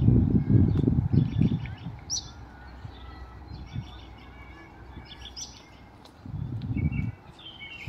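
Songbirds singing, the same high phrase coming back every second or two, with one clear whistle about two seconds in and chirps near the end. Two bursts of low rumble, one at the start and one about six seconds in, are the loudest sounds.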